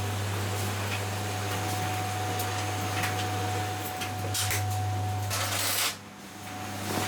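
Steady low machine hum with a thin constant tone over it, a few light clicks, and a short rustle near the end.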